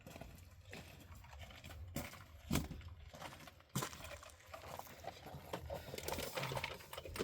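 Scattered clicks, knocks and rustling of tools and small parts being handled, with one sharper knock about two and a half seconds in.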